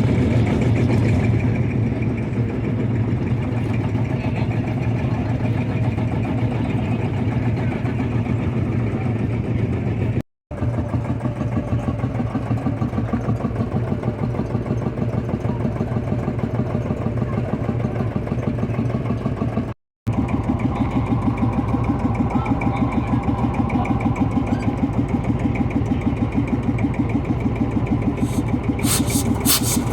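Tractor engine running steadily with an even, rapid firing beat. The sound cuts out completely twice for a split second, and a few sharp clicks come near the end.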